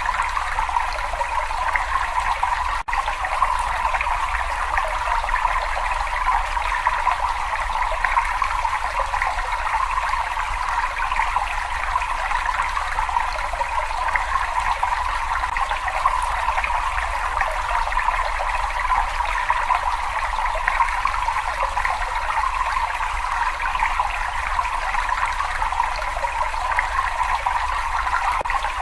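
Water running and trickling steadily, an even splashing hiss with one momentary gap about three seconds in.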